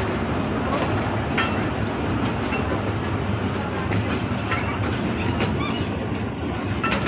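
Train passing over a level crossing: a steady rumble of wheels on rail, with a few sharp clacks from the wheels at the joints.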